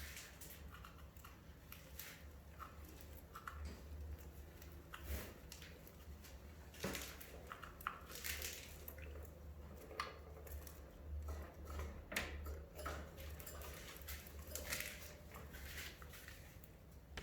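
Small caged parakeets making faint, scattered chirps and sharp clicks over a steady low hum.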